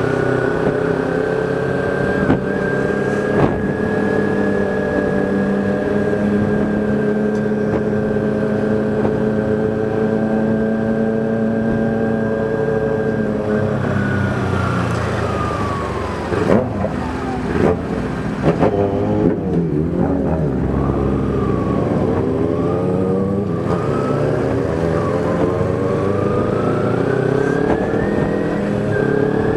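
Kawasaki Ninja 250R's parallel-twin engine, heard from inside the rider's helmet, holding steady revs at a cruise for roughly the first half. Then it drops off as the bike slows, and in the last third it climbs in pitch as it accelerates again, with a gear change near the end.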